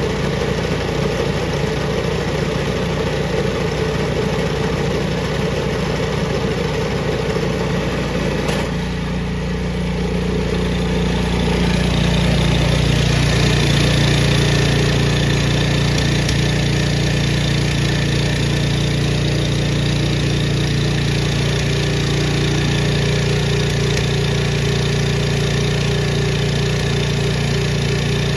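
Powermate 208cc overhead-valve single-cylinder engine of a single-stage snowblower running steadily. Its note changes suddenly about nine seconds in, and it runs a little louder from about twelve seconds on.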